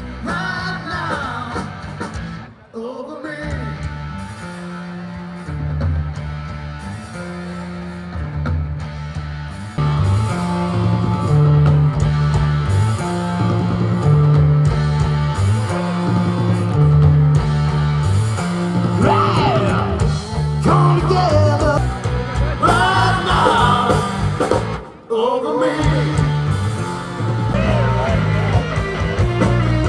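Rock music: a singer over electric guitar and a steady, repeating bass line, with two brief dips in the sound.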